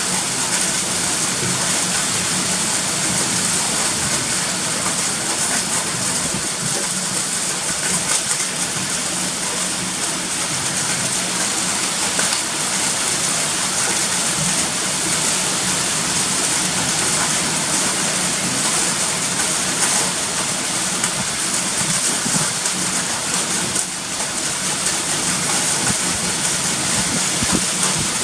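Typhoon wind and rain: a steady, loud rushing hiss of wind-driven rain that swells slightly at moments.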